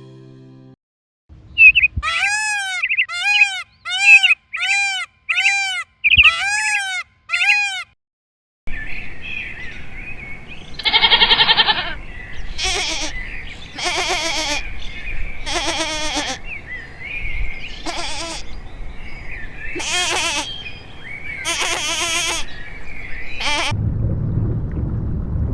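Animal calls: first a quick series of about a dozen short calls, each rising and falling in pitch. After a short pause comes a slower run of about ten longer calls over background noise, and a low rumble starts near the end.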